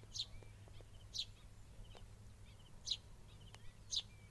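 Short, high-pitched bird calls repeated about once a second, with fainter small chirps between them, over a steady low hum.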